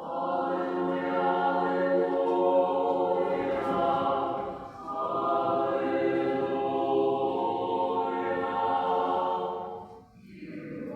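Ukrainian church choir singing liturgical chant a cappella in long held chords. It sings two phrases with a short break about five seconds in, and the second phrase ends about ten seconds in.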